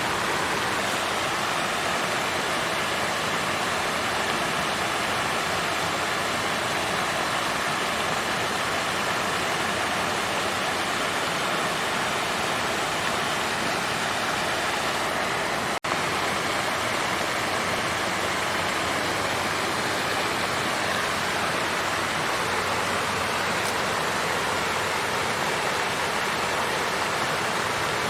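Water fountain splashing and flowing in a steady, even rush, with a split-second dropout about halfway through.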